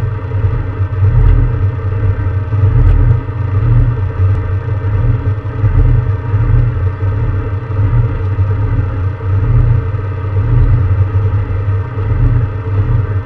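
Peugeot 306 S16 rally car's four-cylinder engine running at a steady speed while the car stands still, heard inside the cabin as a loud, deep rumble with an unchanging engine note.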